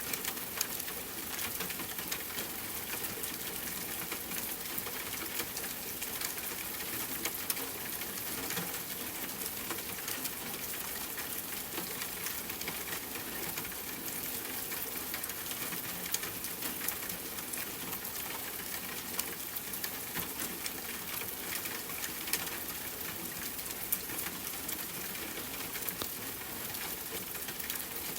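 Steady rainfall hiss mixed with the irregular crackles and pops of a wood fire.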